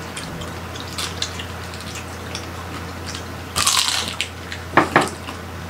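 Biting and chewing crispy roast-pig (lechon) skin and meat: scattered small mouth clicks, a burst of crunching about three and a half seconds in, and two sharp crunches near the end.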